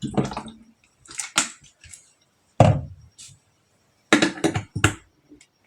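Kitchen containers being handled and set down on a counter: a few sharp clicks and knocks, one heavier thud about two and a half seconds in, and a quick run of clicks near the end.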